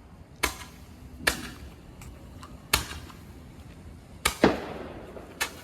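Fireworks going off: about six sharp bangs at irregular intervals, two in quick succession about four seconds in, each with a short echoing tail, over a steady background hiss.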